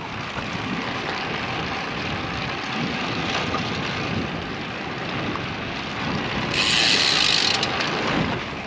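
Wind rushing over a bike-mounted action camera's microphone, with road noise from a road bike in motion. A louder hiss rises briefly about two-thirds of the way through.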